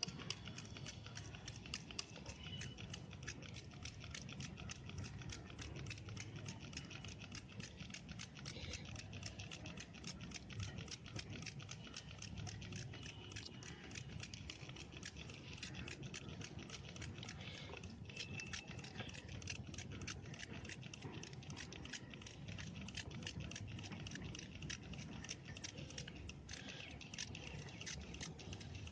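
Faint, steady patter of rapid small clicks as diesel is sprayed from a hand spray bottle onto a motorcycle's drive chain.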